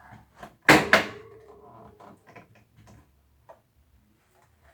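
Parts of an air conditioner knocking and rattling as it is taken apart by hand: two sharp knocks about a second in, then light clicks and rattles.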